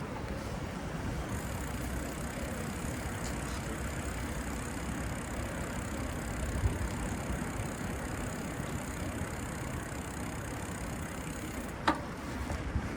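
Steady street traffic and road rumble heard from a moving bicycle, with one sharp click near the end.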